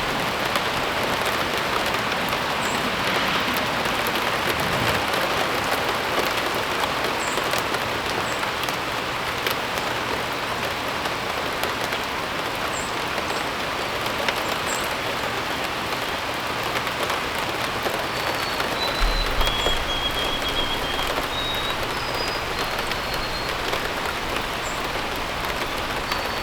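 Steady rain falling as an even hiss. Small birds chirp briefly here and there, and from about two-thirds of the way through a bird gives a run of short whistled notes.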